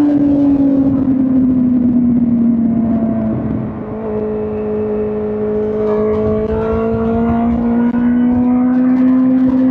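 2005 Suzuki GSX-R1000 K5's 999 cc inline-four engine running under way. Its note falls over the first three seconds, the level dips briefly around four seconds in, and then the pitch climbs slowly as the bike pulls again.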